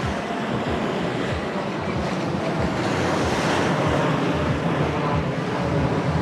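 Sea waves washing onto the shore, a steady rush of surf, with wind buffeting the microphone in uneven gusts.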